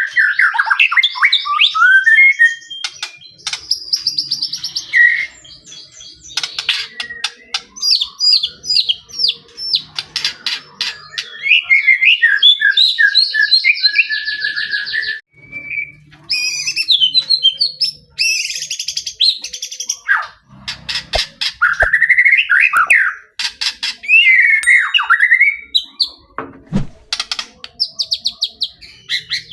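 White-rumped shama singing a loud, varied song. It runs through sweeping whistles that rise and fall, fast trills and quick rattling notes, phrase after phrase with only brief pauses.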